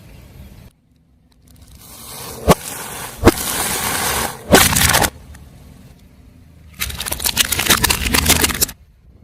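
Crunchy objects crushed under a car tyre: crackling and snapping in three bursts, with two sharp cracks in the first, and a long dense burst of crackling near the end.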